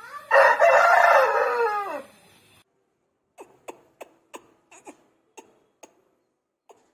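Aseel rooster crowing once: one long call of about two seconds that drops in pitch at the end. A run of short faint clicks follows.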